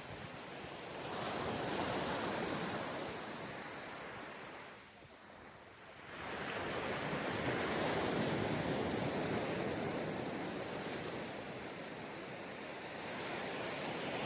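Ocean surf washing onto a beach in swells: one wave breaks about a second in, there is a lull near the middle, then a larger wave breaks and washes up the shore, fading slowly toward the end.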